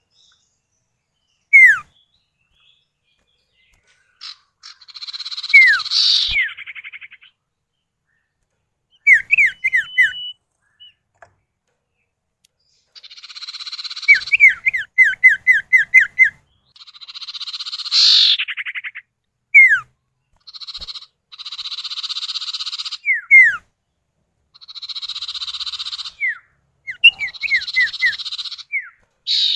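Common iora calls: runs of short, sharp, falling whistled notes alternate with harsh buzzing rattles of a second or two, as male and female answer each other in turn.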